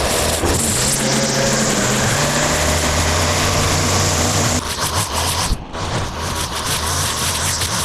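Engine of outdoor power equipment running steadily under load. The sound changes abruptly about four and a half seconds in, with a brief break a second later, then the engine carries on.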